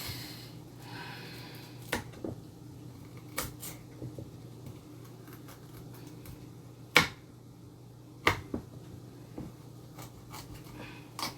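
Scattered sharp knocks and clicks of kitchen food prep, utensils set down against a counter or cutting board, about eight at irregular gaps with the loudest near the middle. A steady low hum runs underneath.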